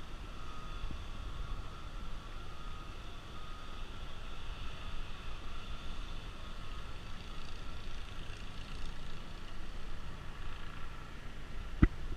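Steady mechanical hum with a low rumble and a faint high whine, broken by one sharp knock near the end.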